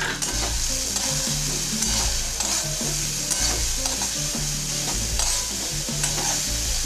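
Fried potato pieces and spice masala sizzling in mustard oil in a wok while a spatula stirs them, scraping against the pan again and again over a steady sizzle. The masala is being sautéed (kasha) until the oil separates.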